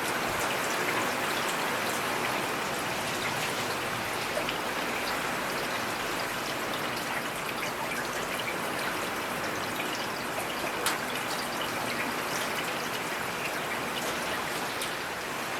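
Steady rain falling, with the patter of individual drops and a trickling of water.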